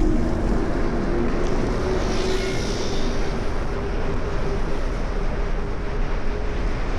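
Steady rush of wind and road noise while riding an electric motorcycle.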